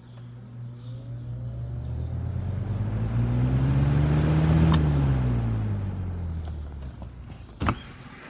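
A motor vehicle driving past, growing louder to a peak about halfway through and then fading, its engine pitch rising and then falling. A click is heard at the start and another sharp knock near the end.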